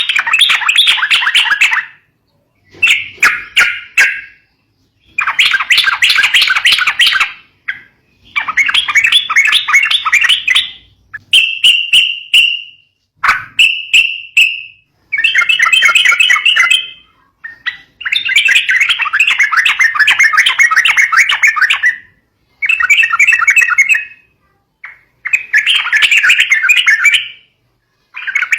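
Yellow-vented bulbul (trucukan) calling in loud, chattering bursts of one to three seconds, with short pauses between them. Two shorter, clearer notes come in the middle.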